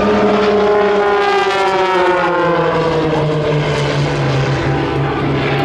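Propeller airplane flying past, its engine note dropping steadily in pitch as it goes by.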